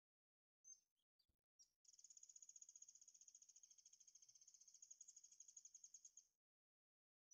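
Faint bird calls: a few short high chirps, then a rapid high trill lasting about four seconds.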